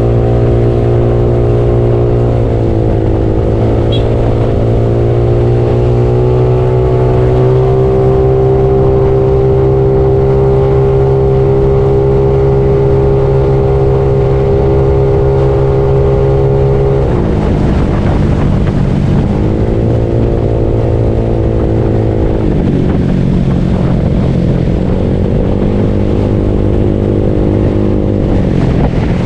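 Yamaha Mio automatic scooter with a bored-up single-cylinder engine running while being ridden. Its pitch holds steady for long stretches, drops sharply about seventeen seconds in, then changes again twice before the end as the throttle is eased and opened.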